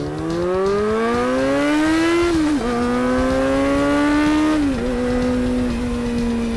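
Kawasaki ZRX400's inline-four engine accelerating hard through the gears, its pitch climbing steadily and dropping sharply at two upshifts, the second about five seconds in, then holding and easing off. It revs out cleanly at high rpm, the high-rpm fault having been cured.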